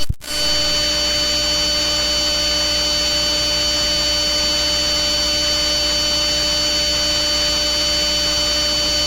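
Loud, steady electric-sounding buzzing hum over a hiss, made of several fixed tones that never change pitch. It starts with a short pop and cuts off abruptly at the end: one loop of a deliberately annoying challenge sound.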